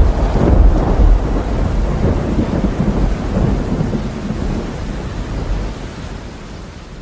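A loud, deep rolling rumble with a hissing noise over it, like thunder, dying away steadily over several seconds.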